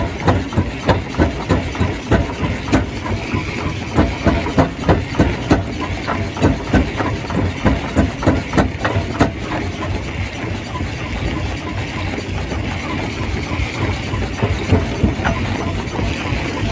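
Stone crusher running under load: a steady heavy machine drone with rapid hard knocks and cracks of rock being broken, about two to three a second, settling into a more even grinding run in the second half.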